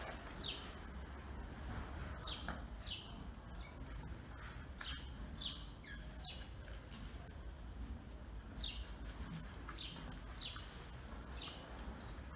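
Small birds chirping: many short, falling chirps at irregular intervals over a low steady rumble.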